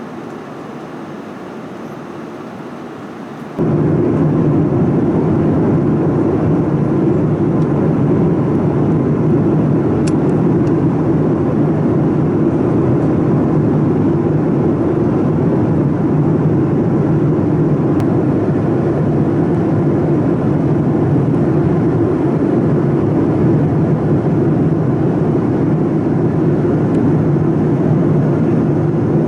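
Steady jet engine and airflow noise inside the cabin of a Boeing 787-9 with GE GEnx-1B engines. It jumps suddenly much louder a few seconds in, then holds a deep, even rush.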